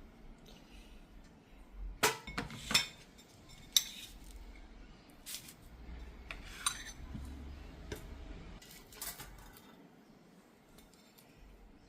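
Cutlery and crockery clinking and knocking in irregular, scattered strikes, a few close together about two to three seconds in.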